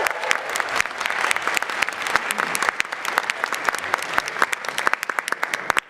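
Audience applauding in a hall, steady dense clapping that dies away suddenly just before the end.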